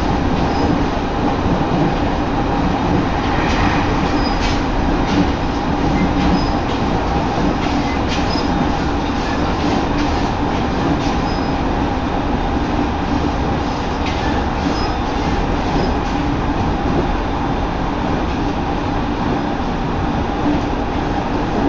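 Running noise of a Sotobo Line electric commuter train at speed, heard from inside the carriage. A steady rumble carries a constant hum, with scattered clicks of the wheels passing over rail joints.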